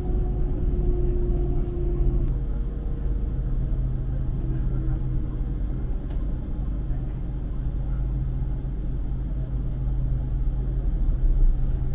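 Passenger train heard from inside the carriage: a steady low rumble and hum of the train running along a station platform.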